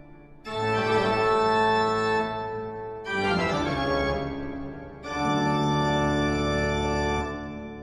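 Organ music: slow, sustained chords, with a new chord coming in about half a second in, again about three seconds in and about five seconds in, each one fading away slowly.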